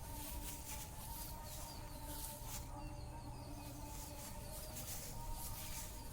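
Outdoor rural ambience: birds chirping and insects, over a faint steady hum.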